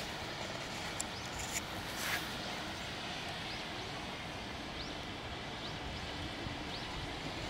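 Outdoor garden ambience: a steady hiss with about four faint, short, high bird chirps spread through the second half, and a couple of light clicks about one and a half seconds in.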